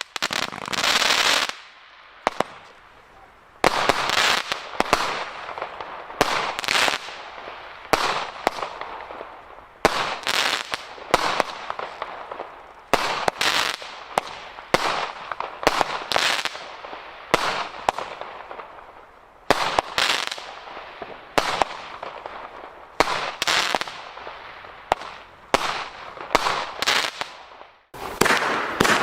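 Nico Master Blaster firework battery firing a long series of shots, roughly one a second, each a sharp bang with a short fading tail.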